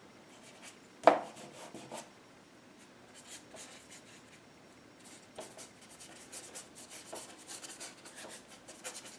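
Paintbrush scrubbing and dabbing acrylic paint onto canvas in short, scratchy strokes that come faster from about halfway through, with one sharp tap about a second in.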